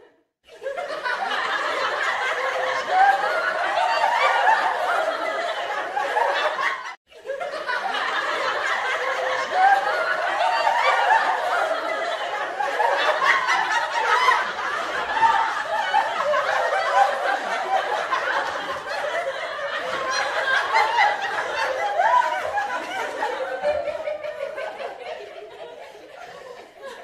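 People laughing and snickering, cutting out briefly about seven seconds in.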